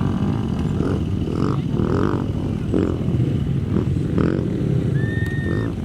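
Off-road race vehicle engines rumbling steadily, with a brief held high-pitched tone about five seconds in.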